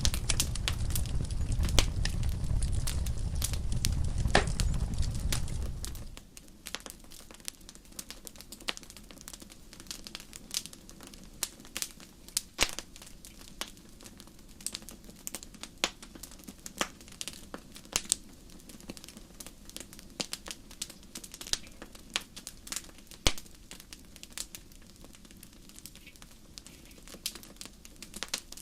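Wood fire in a fireplace crackling and popping, with many sharp snaps each second. A loud low rumble runs under the crackling at first and cuts off suddenly about six seconds in.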